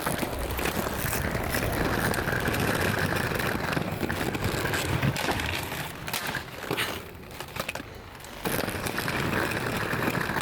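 Steady rushing noise of wind and rolling on pavement, dropping away for about two seconds past the middle, then returning.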